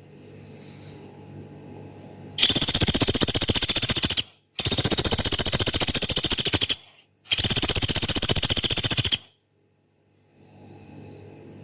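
Pelatuk beras woodpecker (Dendrocopos nanus) giving three long, harsh, rapid rattling calls of about two seconds each, with short pauses between them. A faint low hum fills the pauses.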